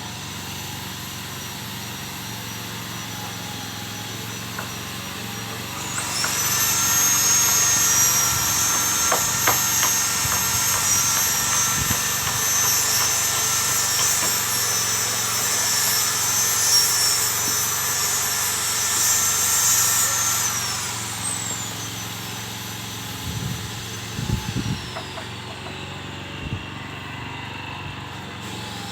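A motor running steadily with a low hum. From about six seconds in, a loud, high, shrill whine joins it, holds for about fifteen seconds, then slides down in pitch and fades. A few short knocks come near the end.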